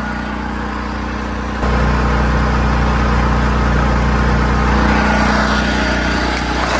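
A small engine running steadily, stepping up in loudness about a second and a half in.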